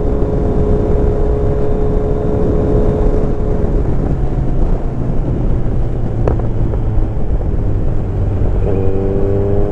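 Kawasaki Z900's inline-four engine running at a steady cruising speed under heavy wind noise on the microphone. Its note drops back for a few seconds and comes in again slightly higher near the end as the throttle is opened.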